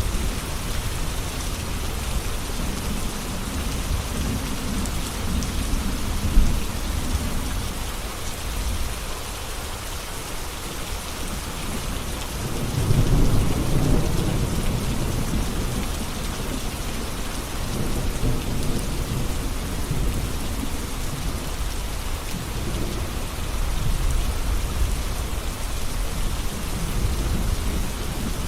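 Steady heavy rain with thunder rumbling low, the rumble swelling loudest a little under halfway through and again several times later.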